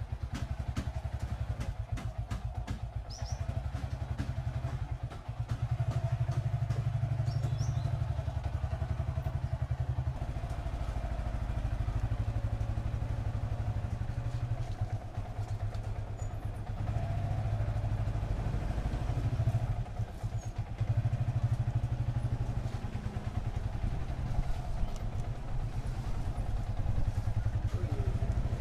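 Motorcycle engine running during a ride, its loudness rising and falling a few times.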